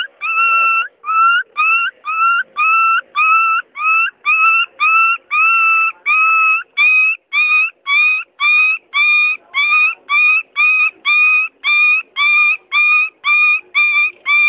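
A comedy sound effect: one short, high-pitched squeaky note repeated over and over at about two a second. Each note scoops upward at its start and then holds.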